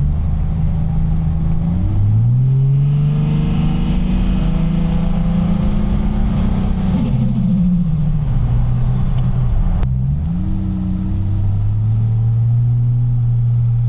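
Turbocharged TB48 straight-six of a 1000 hp Nissan Patrol under way. The engine note climbs about two seconds in and holds, drops away from about seven to ten seconds, then picks up again and settles into a steady pull.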